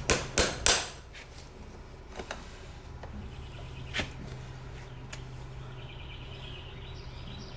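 Farrier's hammer driving horseshoe nails through a shoe into a hoof, sharp ringing blows about three a second that stop within the first second, followed by a few light taps.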